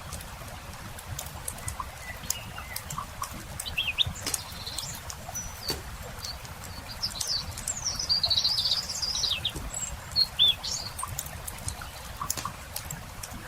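Campfire crackling with scattered sharp pops, while small songbirds chirp and call; a longer, busier run of birdsong comes about eight to ten seconds in.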